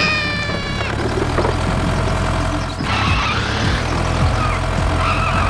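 Engine running steadily, with a short high tone falling in pitch at the start.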